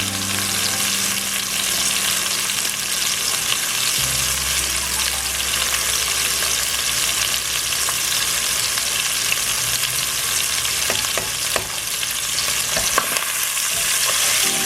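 Beef sausage sizzling and crackling steadily as it fries in its own fat in a pan, with a few light utensil clicks late on.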